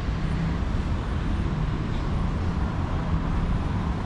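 Steady city street traffic: a continuous low rumble of passing vehicle engines and tyre noise.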